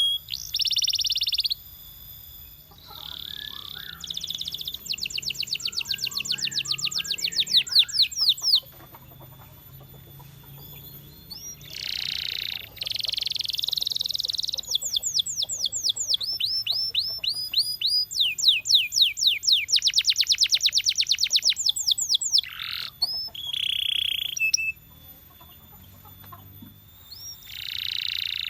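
Canary singing: long phrases of fast repeated high chirps and trills, each held a few seconds before the next, with two short pauses.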